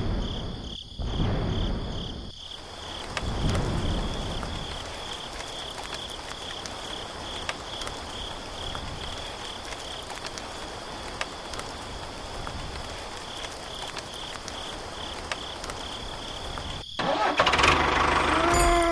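A small motor running steadily with a constant high whine, louder and rougher in the first few seconds. About seventeen seconds in it cuts to a louder, different sound with short gliding tones.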